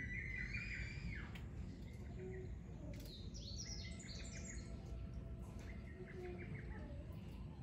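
Wild birds chirping against steady low background noise, with a quick run of short high notes stepping downward about three seconds in.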